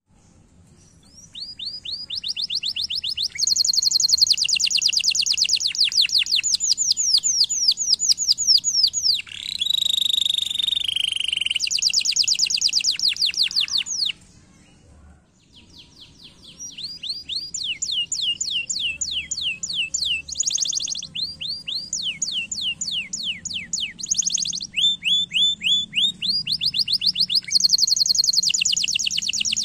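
Domestic canary singing: long rolling trills of rapidly repeated falling notes, switching from one tour to the next every few seconds, with a brief pause about halfway.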